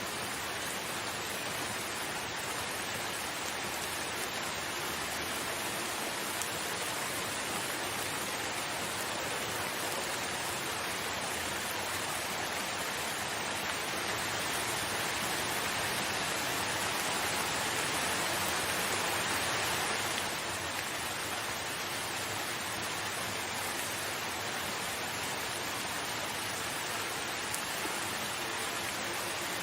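Steady rain falling, a dense even hiss without single distinct drops. It swells a little just past the middle and eases back suddenly about two-thirds of the way through.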